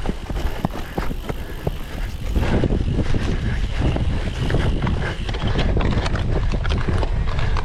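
Cyclocross bike ridden hard over a rough grass and dirt course: tyre rumble with frame and drivetrain rattling in many small knocks, and wind buffeting the microphone, the low rumble growing louder about two and a half seconds in.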